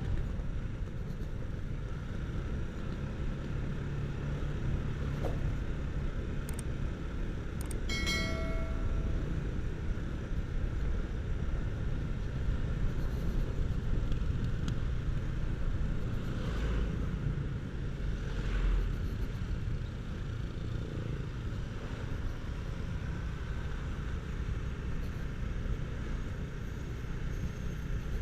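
Motorcycle riding along a road: a steady low rumble of engine and road noise, with a brief pitched tone, like a horn or bell, about eight seconds in.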